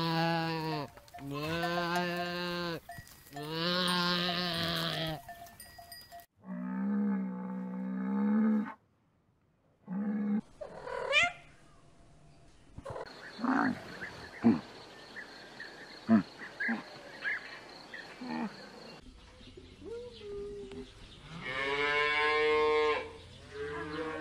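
A string of calls from different farm and domestic animals. There are three long wavering bleats near the start, another call shortly after, and a short rising call midway. Scattered clicks follow, and a long higher-pitched call comes near the end.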